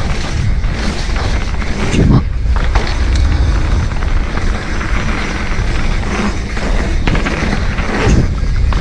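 Wind rumbling on an action camera's microphone, with tyre and frame noise from a mountain bike riding down a dirt trail. There are heavier thumps about two seconds in and near the end.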